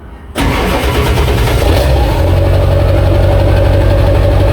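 A vehicle engine running steadily and loudly, coming in abruptly about half a second in.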